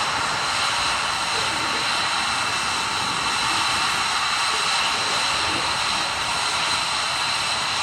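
Fixed-wing aircraft engine noise at an air show: a steady rushing hiss with a thin high whine, holding at an even level throughout.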